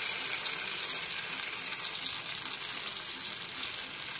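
Chicken kabab skewers frying in melted butter and oil in a non-stick pan: a steady sizzle.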